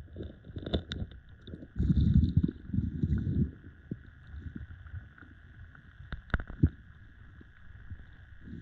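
Close handling noise as an angler moves and sets up at the water's edge: low rumbling scuffs, loudest between about two and three and a half seconds in, and a few sharp clicks and knocks, over a steady high hum.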